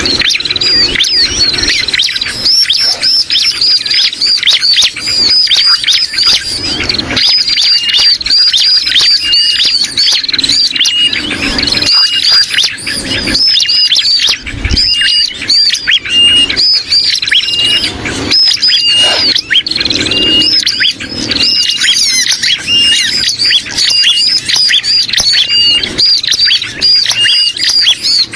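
Bird-lure recording of bar-winged prinia calls mixed with sooty-headed bulbul alarm and distress calls: dense, loud, high-pitched chattering, with a short note repeating about once a second through the second half.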